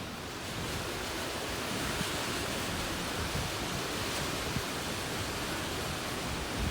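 Strong, gusty wind blowing in a steady rush that swells a little about a second in, with brief low thuds of wind buffeting the microphone.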